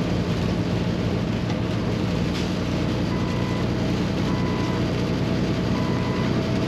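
Paccar MX13 diesel engine of a Kenworth T680 semi truck running steadily, heard inside the cab with road and wind noise. From about three seconds in, a short electronic beep repeats about every 1.3 seconds.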